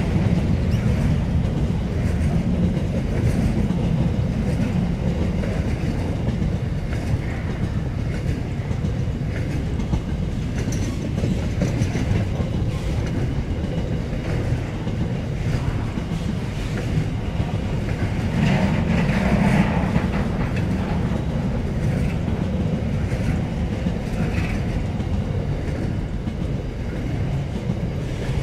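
Freight train of container wagons rolling past: a steady low rumble of steel wheels on the rails with light repeated clicking over the rail joints, swelling briefly about two-thirds of the way through.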